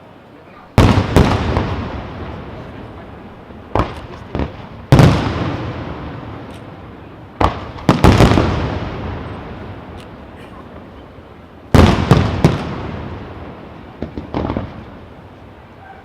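Firework shells bursting in the air: loud sharp bangs every few seconds, some single and some in quick pairs, each followed by a long rolling echo that fades away.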